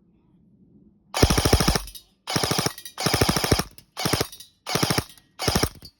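ASG Scorpion Evo 3 A1 electric airsoft gun firing on full auto in six short bursts of rapid shots, starting about a second in.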